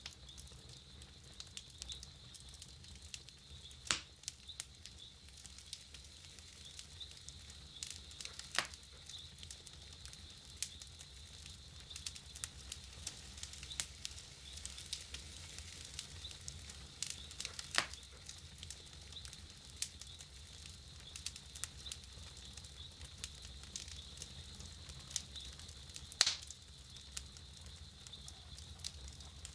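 Wood campfire crackling, with a steady scatter of small ticks and pops and four louder snaps spread through it.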